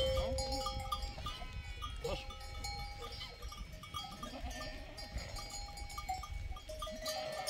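A flock of sheep and goats with bells ringing on the animals, many short repeated ringing notes overlapping, and an occasional bleat.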